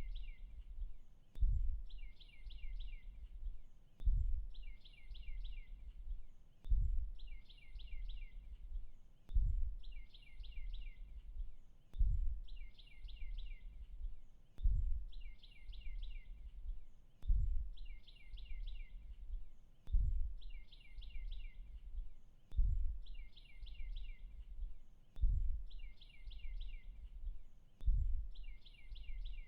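A bird repeats a short chirping phrase of four or five quick notes about every two and a half seconds, at a very even pace. A low rumble swells in step with each phrase.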